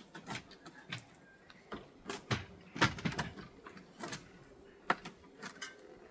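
Irregular knocks, clunks and scrapes of a UPVC window frame being lifted and set into the wall opening, the loudest hits about three seconds and five seconds in.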